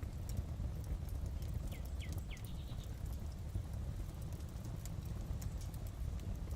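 Fireplace fire crackling: a steady low rumble with scattered sharp pops and snaps. About two seconds in come three short, quick, high chirps.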